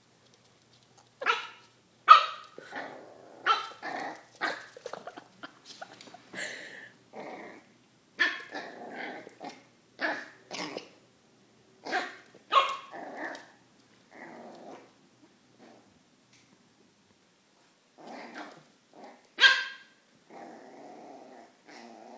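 An eight-week-old border collie/blue heeler mix puppy barking in short sharp yaps mixed with growling, the alarmed barking of a puppy frightened by a toy dog. About a dozen barks come in clusters, with a pause of a few seconds past the middle before one more loud bark.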